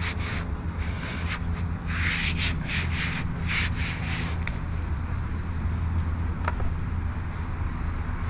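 Sanding body filler on a repaired RV cargo door, with repeated rasping strokes over a steady low hum.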